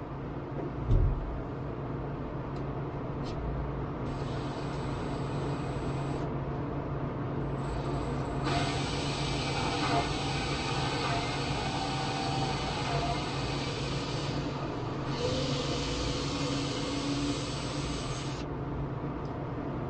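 Power drill boring 1/8-inch pilot holes through a plywood floorboard into a wooden block, its high whine running twice, a short burst and then a stretch of about ten seconds, over a steady background hum.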